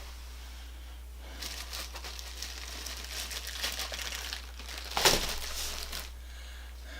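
Plastic packaging crinkling and rustling as it is handled, with one sharper, louder crackle about five seconds in.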